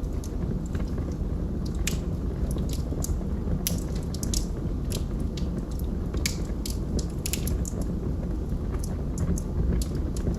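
Log fire crackling: irregular sharp pops and snaps, several a second at times, over a steady low rumble.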